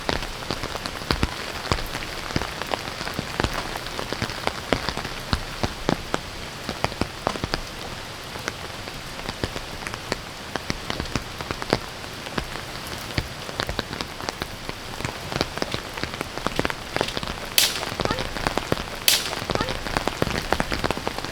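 Steady rain pattering, with many close, distinct drop hits. Two brief sharp noises come near the end, about a second and a half apart.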